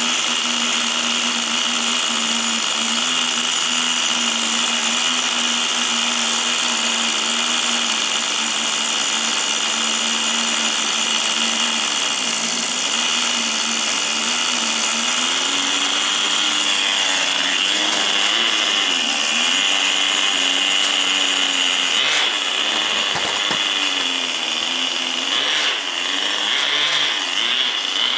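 Tamiya TGS 1/10 RC car's small nitro glow engine running at a high, buzzing pitch, holding steady for about twelve seconds, then revving up and down repeatedly.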